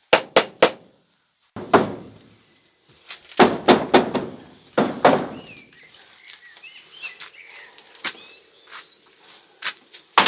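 A series of sharp knocks and thuds: three quick ones, a single one, then a longer dense run of strikes, and two more near the end. Faint bird chirping comes through in the quieter stretch between them.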